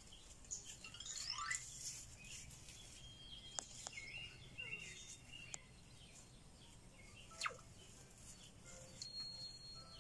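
Faint bird chirps and short whistles, scattered and irregular, with a few sharp clicks and one louder falling call about three quarters of the way through.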